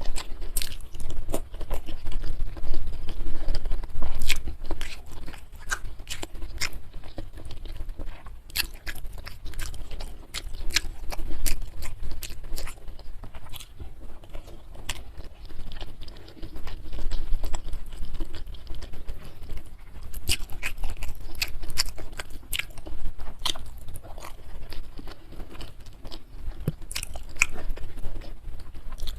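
Close-miked chewing and biting of food, with many irregular sharp crunches and mouth clicks.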